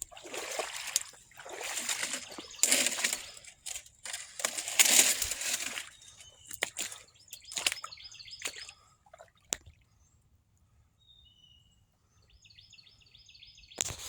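Boots wading through shallow floodwater: about four sloshing strides over the first six seconds. Then a few light clicks, and near quiet with faint high chirps near the end.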